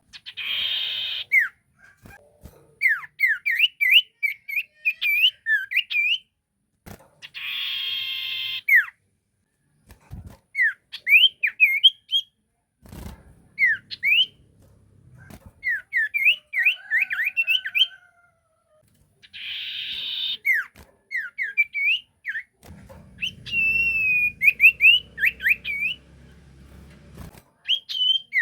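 Sirtu bird singing a lure song: quick runs of sharp whistled notes, each sweeping steeply in pitch, broken three times by a harsh rasping call about a second long.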